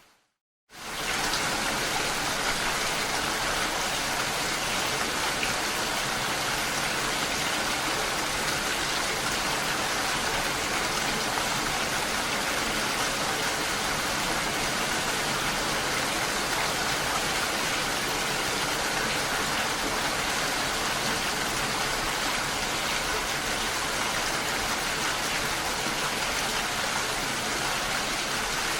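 Steady rain, a dense even hiss of drops with no change in strength. Right at the start the sound fades out to a moment of silence, then the rain comes back in abruptly about a second in, as at a splice in the recording.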